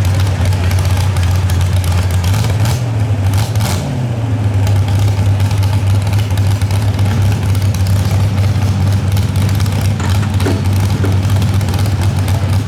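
Truck engine running steadily at one pitch, rising briefly in pitch about three seconds in.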